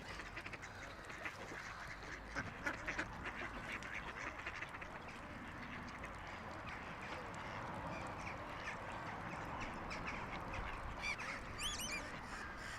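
Wetland birds calling: a dense, steady chatter of many overlapping calls, with a brief run of high chirps near the end.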